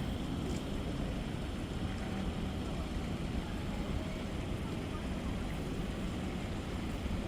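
Steady low rumbling noise of a moving vehicle, even throughout with no distinct events.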